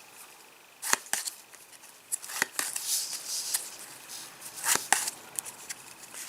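Trading cards being handled and flicked through by hand: a string of sharp card snaps and short sliding rustles at irregular intervals.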